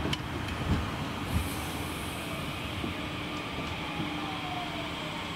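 DART electric multiple unit running past close by, with continuous wheel and running noise and a steady low hum. A couple of short low thumps come about one and a half seconds in.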